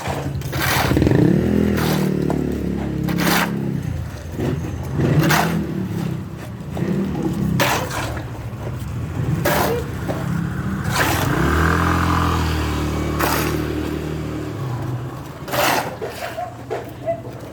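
An engine running at a changing speed, its pitch rising and falling, with sharp scrapes or knocks every second or two.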